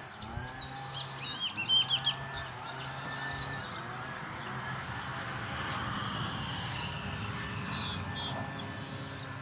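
Small birds chirping in quick high notes, with a fast trill about three seconds in and a few more chirps near the end, over a steady low hum.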